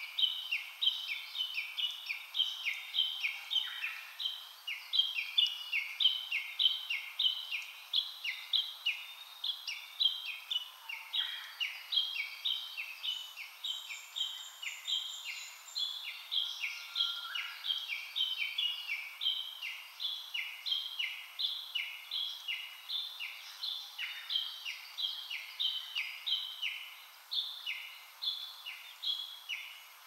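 Forest birdsong: a steady run of short, high, repeated notes, two or three a second, from at least two callers at slightly different pitches overlapping each other, with a few fainter lower calls now and then.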